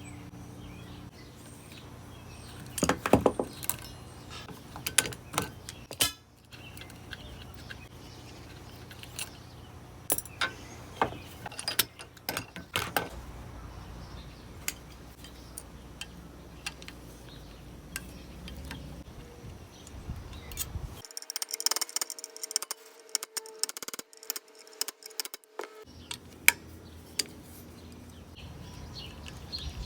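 Scattered light metallic clinks, taps and knocks of tools and metal parts being handled while a water heater is dismantled for scrap, over a low steady hum. The hum drops out for a few seconds in the second half, leaving only the clinks and a faint hiss.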